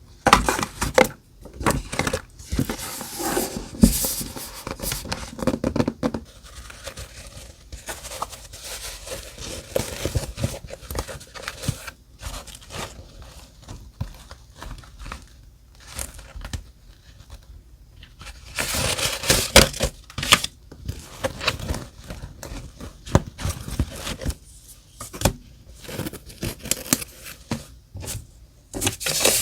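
Close-up paper sounds from scrapbook journal decorating: paper tearing, crinkling and rustling in short bursts, with small taps and clicks. The loudest stretch comes about two thirds of the way through.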